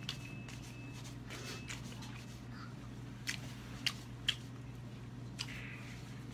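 Chewing, with a few sharp clicks from a hand handling a clear plastic takeout container, over a steady low hum.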